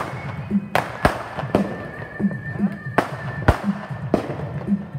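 Consumer fireworks going off: about seven sharp bangs at irregular intervals, with a faint steady whistle through the first three seconds or so. Music with a steady beat plays underneath.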